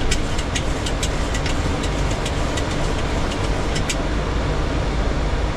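Steady flight-deck noise of a Boeing 737 in flight, with a quick run of about twenty light clicks over the first four seconds that then stop.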